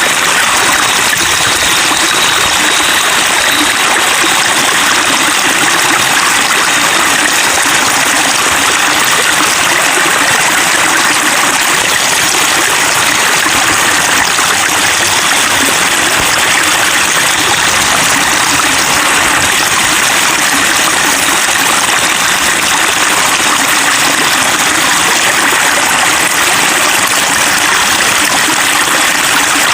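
Steady babbling of flowing water over stones in a stream, an even rushing and splashing with no pauses.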